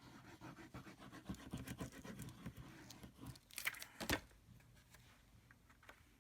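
Paper and cardstock being handled and rubbed by hand, making soft scratching and rustling, with two sharper taps about three and a half and four seconds in.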